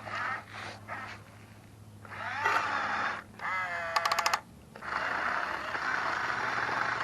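Small electric drive motors and gearboxes of a 1/18-scale Huina RC bulldozer whining in short runs that rise and fall in pitch, with a quick rattle of clicks about four seconds in, then running steadily for the last couple of seconds.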